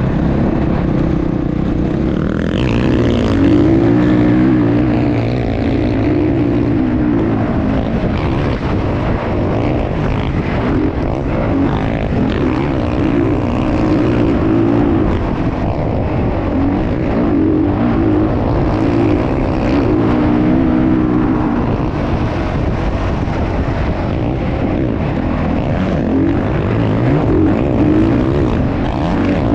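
Motocross dirt bike engines running hard, their pitch rising and falling over and over as the riders rev up and shift.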